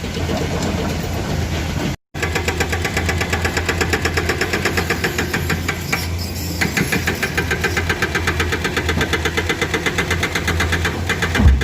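Heavy diesel engines of hydraulic excavators running under load, with a rapid, regular clatter over a steady low hum. The sound cuts out for a split second about two seconds in, and there is a brief low thump near the end.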